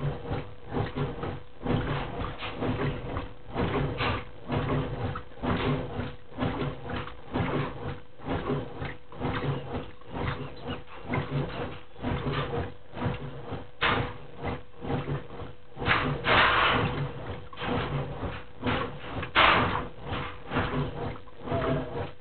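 Brastemp Clean 10 kg top-loading washing machine agitating during its rinse cycle: the agitator churns the water back and forth in rhythmic pulses about two a second, with a steady motor hum underneath. Two louder sloshes come in the second half.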